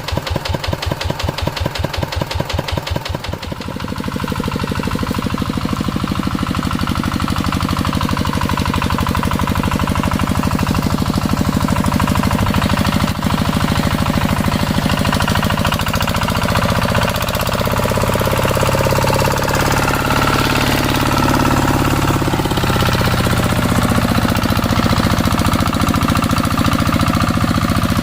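Walking tractor engine running with distinct, evenly spaced firing beats, then speeding up about three and a half seconds in and running steadily at higher revs.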